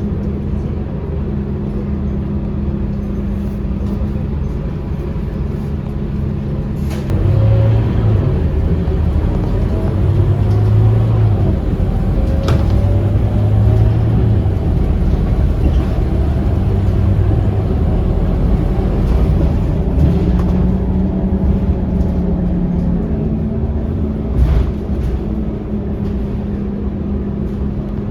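Scania K230UB bus engine idling, then picking up louder about seven seconds in as the bus pulls away, with its pitch rising and falling through the gears. It settles to a steadier run later on, and a single knock is heard near the end.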